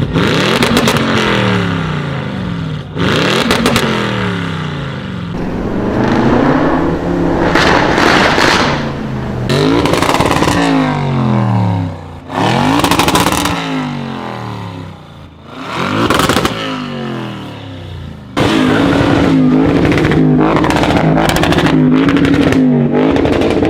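Audi RS6 engine revved again and again, its pitch climbing and dropping several times, with sharp crackles and pops from the exhaust as the revs fall. Near the end it holds at high revs for about five seconds.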